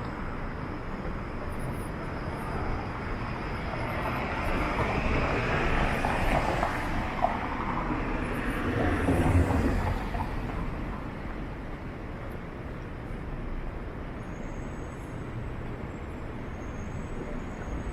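Street traffic on a city road: a vehicle passes by, growing louder over several seconds, loudest about nine seconds in, then fading into a steady background hum of traffic.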